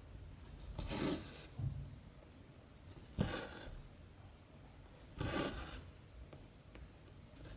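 Cotton embroidery thread pulled through 14-count cross-stitch fabric, three times about two seconds apart, each pull a short swish of about half a second.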